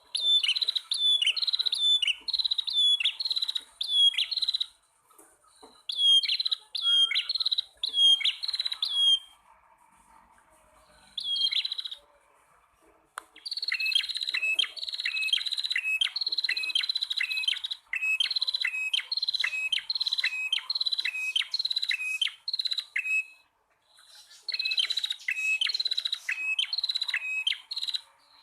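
Prenjak tamu (a prinia) calling: sharp chirps, each falling slightly in pitch, repeated about two a second in long runs broken by short pauses.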